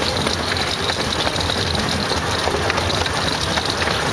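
Miniature steam railway train running: a steady low rumble with faint scattered clicks.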